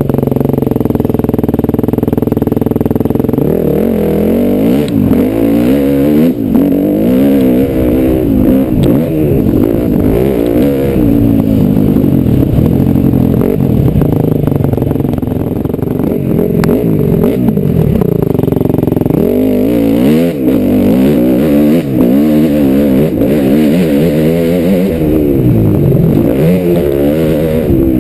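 KTM 250 SX-F four-stroke single-cylinder motocross engine being ridden hard. It holds a steady speed for the first few seconds, then revs up and drops back again and again as the rider opens and closes the throttle through the track.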